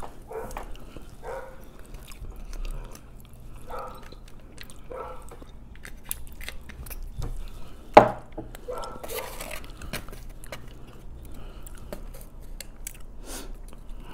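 Close-up chewing and mouth sounds of someone eating sushi, with light clicks and taps of chopsticks against foam takeout containers. About eight seconds in there is a sharp, loud knock as a bottle of sauce is set down on the table.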